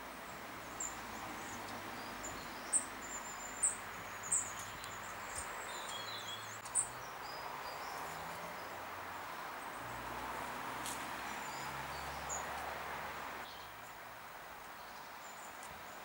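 Long-tailed tits calling with high, thin notes, a run of sharp loud ones in the first seven seconds and fainter ones after, over a steady background hiss that drops off about three-quarters of the way through.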